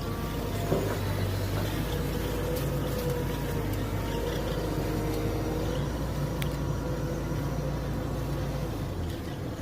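Mini excavator engine running steadily under work, with a higher wavering whine over the low engine hum and a sharp knock about a second in; the engine note drops slightly near the end.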